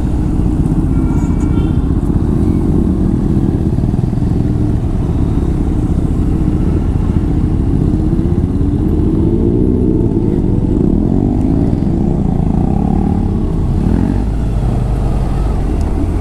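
Sport motorcycle engine running while riding slowly in a group of other motorbikes, the revs rising and falling in a long swell partway through, over a steady low rumble.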